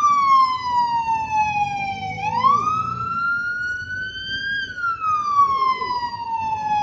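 Electronic siren wailing in a repeating cycle: the pitch slides slowly down, snaps back up about two seconds in, climbs slowly, then slides down again.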